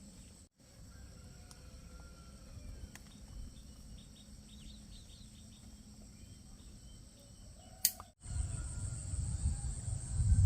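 Rural outdoor ambience with a steady high-pitched insect drone and a few faint chirps. About eight seconds in, after an abrupt cut, a much louder low rumble comes in and grows toward the end.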